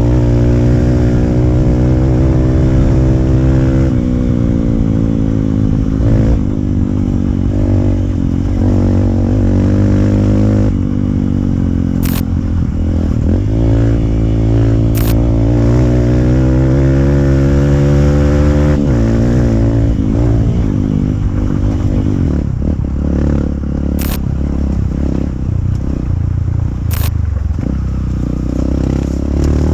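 Modified Hero Impulse's 150cc single-cylinder engine running loud through a free-flow exhaust on an off-road ride, its pitch repeatedly rising and falling as the throttle opens and closes. Four sharp clicks stand out along the way.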